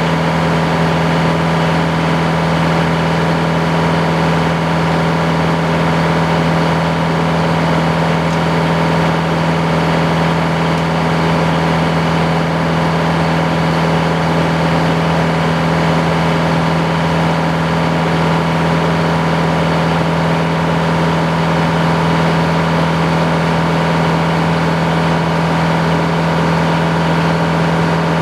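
Sawmill's engine running at a steady, unchanging speed, a constant loud hum.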